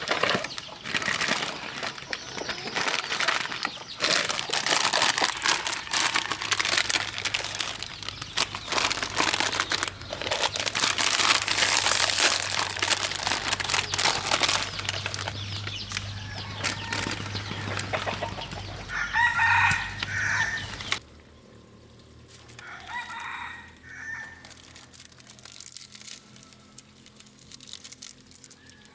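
A rooster crows about nineteen seconds in and again a few seconds later. Under the first crow is a dense crackling, hissing noise with many clicks, which cuts off abruptly after about twenty-one seconds.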